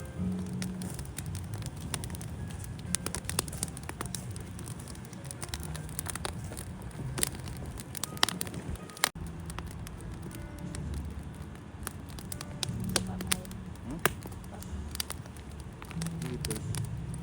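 A wood fire crackling, with sharp pops and snaps at irregular moments over a low, steady background rumble.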